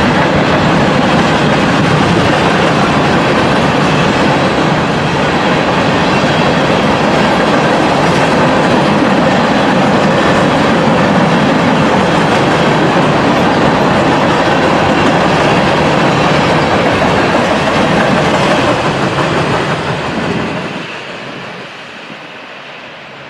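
Freight cars of a BNSF train, covered hoppers and boxcars, rolling past on the rails: a loud, steady rumble of wheels on track. It falls away about 20 seconds in as the last car goes by.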